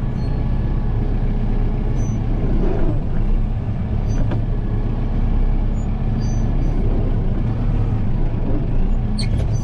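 Kubota M7060 tractor's four-cylinder turbo diesel running steadily while the loader works packed snow, with a few faint knocks.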